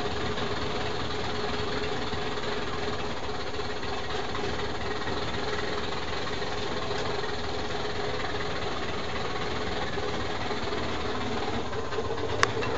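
A steady mechanical hum like a running engine, with one constant low tone through it. Near the end there are a couple of sharp clicks.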